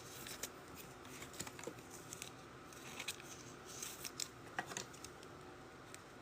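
Faint, scattered soft clicks and rustles of trading cards being handled and flipped through by hand.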